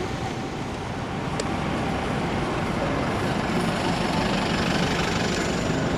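Steady rumble of buses and trams on the move, heard through a camera's built-in microphone.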